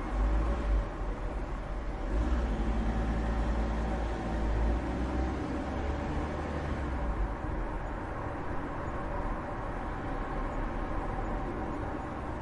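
City street traffic: a heavy vehicle's low engine rumble for about the first seven seconds, dipping briefly near the start, then settling into a steadier background traffic hum.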